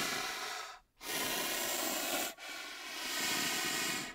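Rhinoceros breathing hard through its nostrils while feeding: long hissing breaths of about a second and a half each, with short pauses between them.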